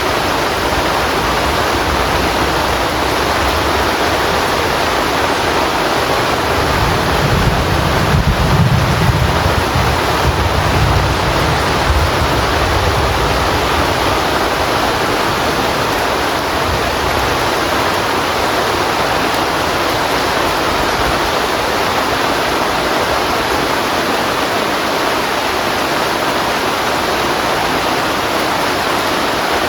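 Heavy rain pouring steadily on a tent, a dense even hiss. A low rumble swells briefly from about seven to twelve seconds in.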